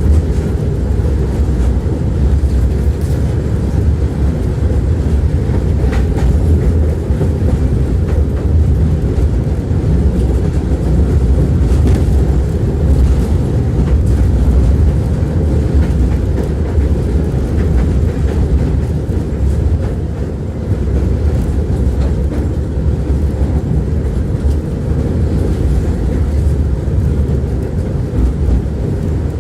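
Tram running along the track, its wheels rumbling steadily with occasional clacks over rail joints, heard from inside the car.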